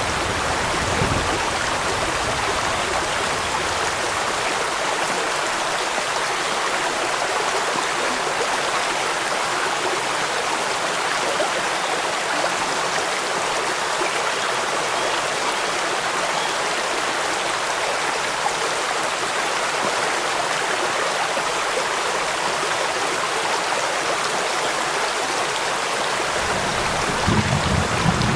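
Steady rain mixed with rushing stream water, an even hiss. A low rumble fades out in the first few seconds and comes back near the end.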